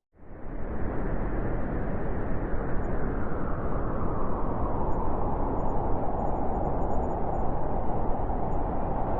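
Blizzard wind howling: a steady rushing noise that comes in suddenly out of a moment of silence, with a higher howl growing stronger from about three seconds in.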